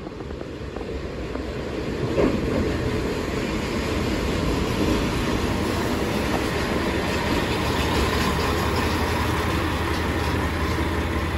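JR West diesel railcar pulling in alongside the platform, wheels running on the rails and its engine humming underneath. It gets louder about two seconds in as it arrives, then holds steady while it draws alongside.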